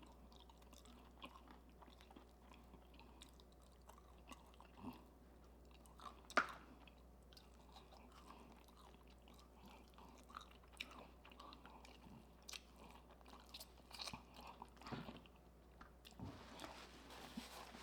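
Faint close-miked chewing of fried chicken: scattered soft mouth clicks and light crunches, with one sharper click about six seconds in.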